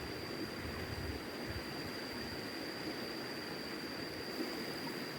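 Steady rushing of river water, with a low rumble of wind on the microphone in the first second and a thin, steady high-pitched tone over it.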